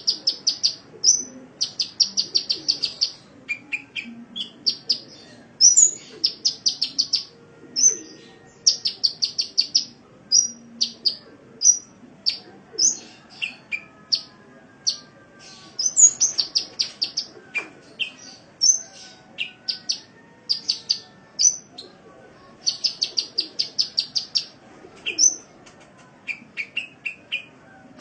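Sunbird song: fast runs of high, thin chips, about ten a second and each run lasting a second or so, broken by single sharp notes and a few lower, shorter chip series.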